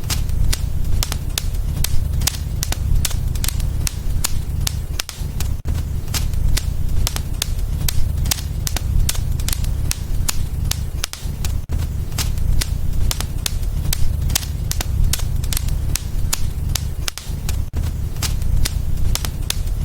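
Wood fire burning in a fireplace: sharp crackles and pops several times a second over a low, steady rumble of the flames.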